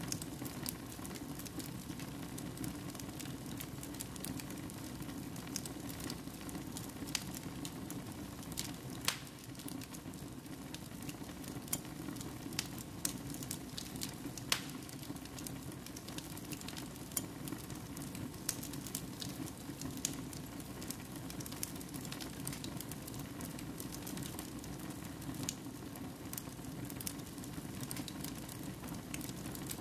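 Fire burning in a fireplace: a steady low rush of flames with irregular sharp crackles and pops throughout.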